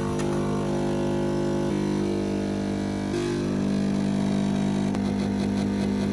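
A kitchen appliance's electric motor or pump running with a steady, even hum that does not change in pitch.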